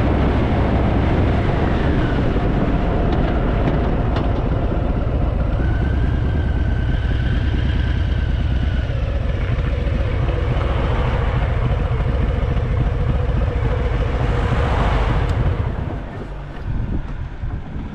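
Harley-Davidson motorcycle running at road speed, its engine rumble mixed with wind noise on the microphone. About two seconds before the end the sound drops away as the bike slows.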